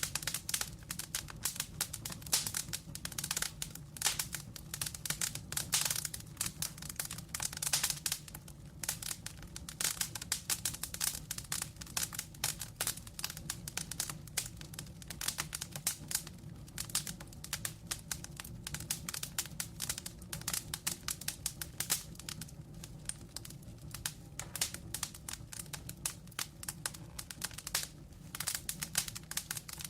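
Wood fire of burning logs crackling in a fireplace: a dense, uneven run of sharp crackles and snaps over a low, steady hiss.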